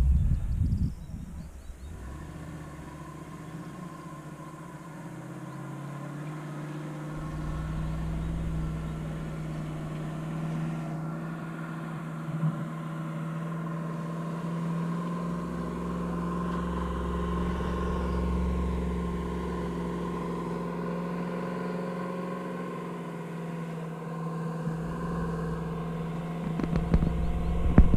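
A motor vehicle running steadily, a low engine drone with a steady hum whose loudness swells gently and eases, growing louder near the end.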